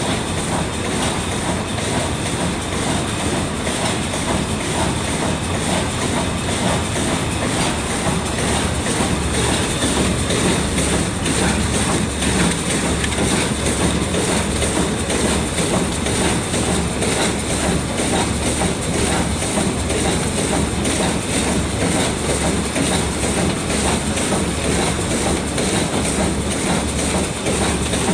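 Vertical form-fill-seal packing machine running steadily while bagging sunflower seeds, a continuous mechanical clatter with a regular low pulsing and a steady high whine.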